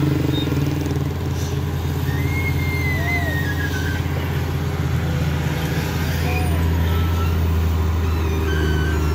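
Vehicle engines running steadily in road traffic: a deep, continuous hum, with a few short faint whistling glides above it.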